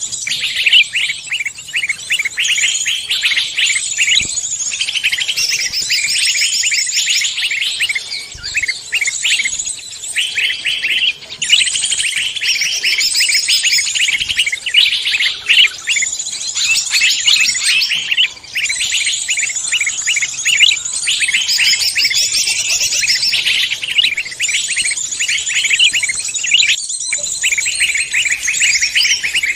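Dense chorus of many songbirds singing and chattering at once, an unbroken overlapping run of rapid high chirps and trills: a mixed-species songbird lure recording (suara pikat).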